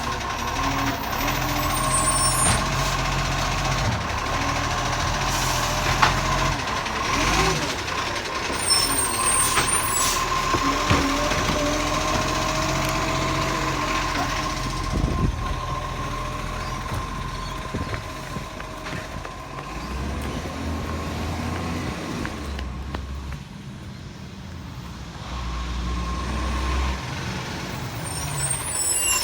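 Bucher-bodied recycling truck running, with a steady high whine over the engine. The engine note changes several times, with a few short sharp hisses or knocks along the way.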